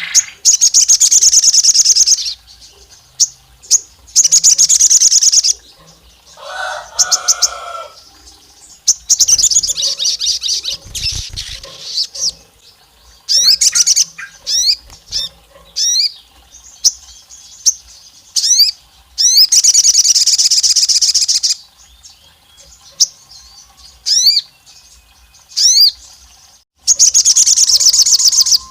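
Sogon songbird singing loud, rapid, high trills about one to two seconds long, again and again, mixed with quick sliding chirp notes. The song is used as a lure to provoke other sogon to sing.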